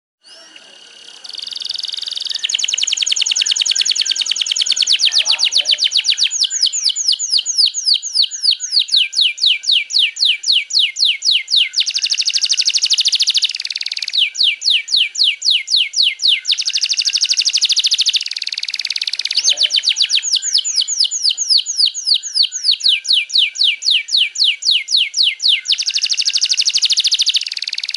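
Domestic canary in full song: a long, loud unbroken stream of rapid trills, each phrase a fast run of repeated notes, changing to a new phrase every few seconds.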